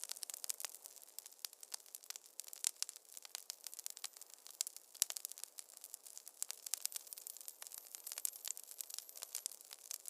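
Wood fire crackling in a fireplace: a dense, irregular run of sharp pops and snaps over a faint hiss.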